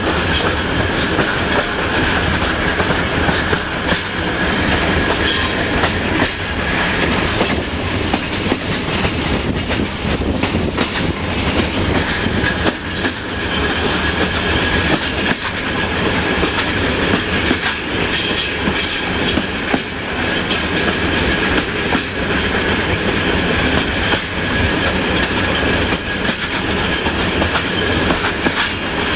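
Regional passenger train running over jointed track, heard from an open coach window: a steady rumble with the wheels clicking over the rail joints.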